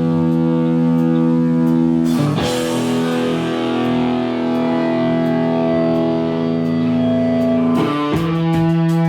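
Live rock band's distorted electric guitars holding long, ringing chords, moving to a new chord about two seconds in and again near the end.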